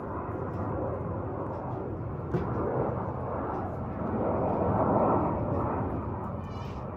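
Jet airliner on landing approach: a steady rumble of engine noise that swells to its loudest about five seconds in, then eases.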